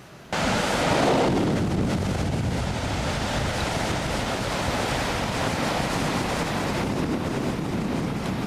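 Ocean surf washing and wind buffeting the microphone, coming in abruptly just after the start and then running as a steady, rough rush.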